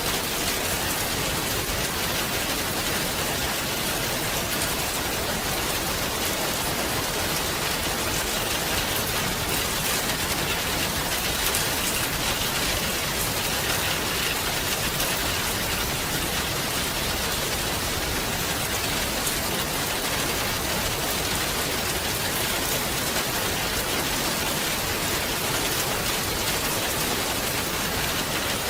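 Steady rain falling, an even hiss of many drops on surfaces with no lulls.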